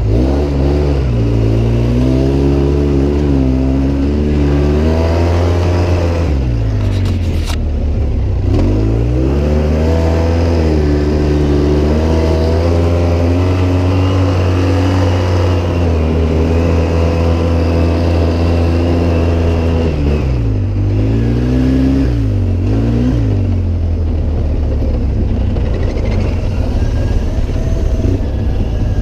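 Off-road vehicle engine running under load while driven over rough ground, its note rising and falling as it speeds up and eases off, dropping low about a quarter of the way in and again about three-quarters through before climbing back.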